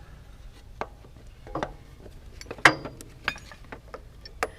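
Ball peen hammer tapping a new axle seal into a differential housing: about five sharp, unevenly spaced metallic taps, the loudest about halfway through with a brief ring.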